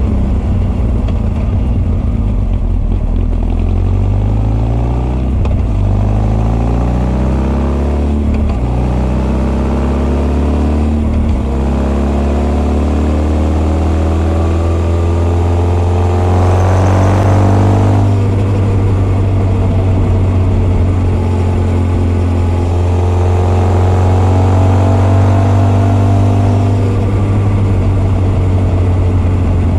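Honda CB1300's inline-four with Keihin FCR41 carburettors and r's gear Wyvern exhaust, carb intake and exhaust both heard, accelerating with the revs climbing and dropping at three upshifts about five, eight and eleven seconds in. It then holds fairly steady revs at speed.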